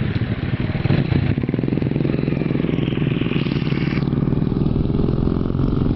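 Honda Wave 110i motorcycle's small single-cylinder four-stroke engine running steadily while riding, with road and wind noise.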